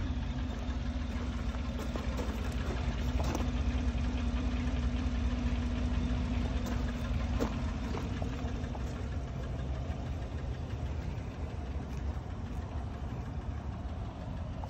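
Chevrolet Tahoe's V8 engine idling steadily, with a few faint clicks over it.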